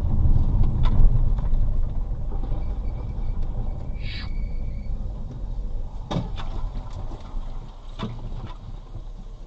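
Low steady rumble of a vehicle on the road, with a few sharp knocks and a brief squeak about four seconds in.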